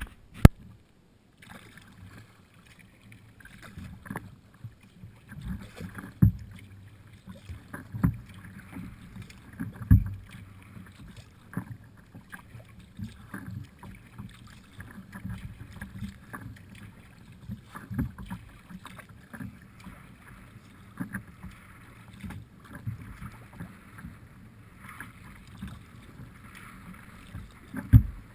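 Kayak being paddled: water sloshing and splashing with the paddle strokes, broken by irregular low thumps.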